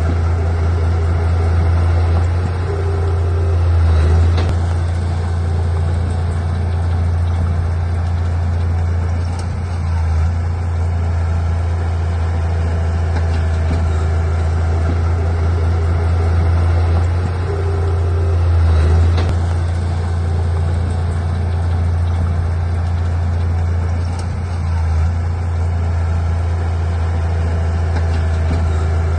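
Heavy earthmoving machine's diesel engine running steadily with a deep low hum, swelling slightly twice.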